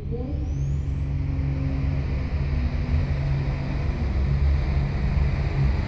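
Super stock diesel pulling tractor's turbocharged engine running hard, a deep rumble under a high turbo whine that rises over the first second and a half and then holds steady.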